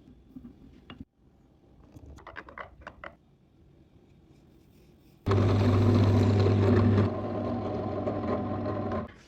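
A few light wooden clicks and knocks, then an electric power tool starts abruptly about five seconds in and runs steadily with a strong hum. It drops in level about two seconds later and cuts off near the end.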